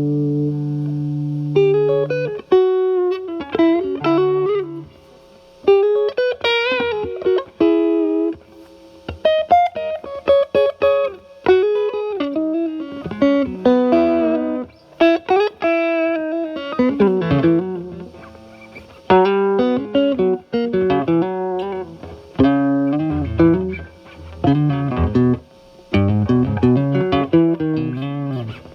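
Stratocaster electric guitar with single-coil pickups, played through a Paul Cochrane Timmy transparent overdrive pedal into a Marshall Valvestate amp's clean channel, at a low-gain, cleaned-up setting. A held chord rings out, then single-note lead phrases follow with string bends and vibrato, with short pauses between them.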